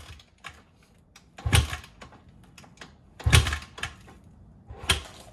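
A series of knocks and thuds, the heaviest about a second and a half and three and a half seconds in, with lighter clicks and taps between them.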